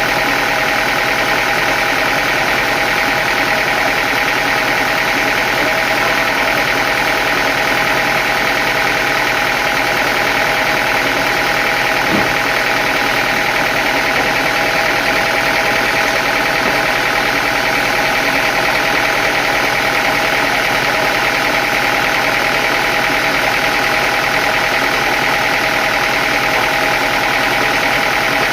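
Sawmill machinery running with a steady, unchanging mechanical drone, with one faint click about twelve seconds in.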